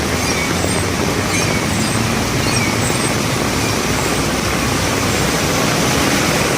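Heavy rain with vehicle noise: a loud, steady hiss with a low rumble underneath.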